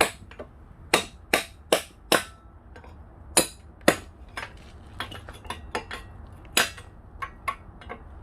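A hammer striking repeatedly: a series of sharp, ringing knocks at an uneven pace, quick runs of strikes broken by a brief lull and some lighter taps.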